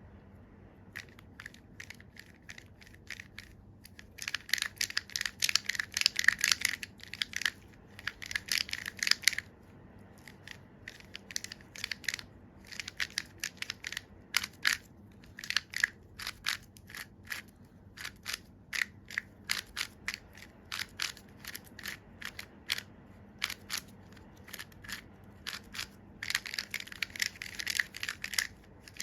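Plastic Square-1 puzzle being turned by hand: sharp plastic clicks of the layers snapping into place, in quick flurries of rapid turns with single clicks in between.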